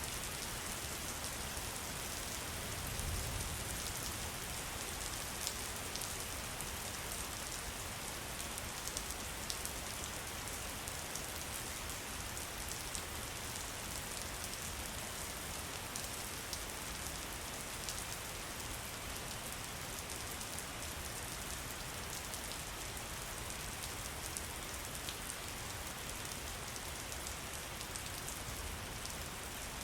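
Steady rain falling, with many small sharp drop ticks throughout and a brief low rumble about three seconds in.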